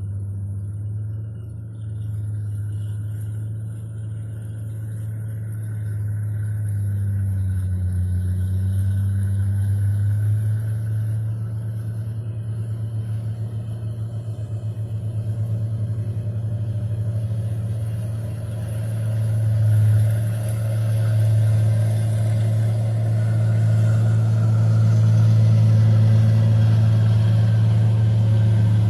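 Bulldozer's diesel engine working under load while towing logging trucks: a steady low drone that grows louder in the last third.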